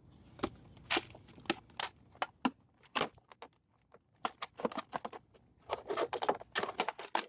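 Plastic seat trim being pried off, its clips popping out with a quick, irregular run of sharp clicks and snaps, with plastic scraping and creaking in between.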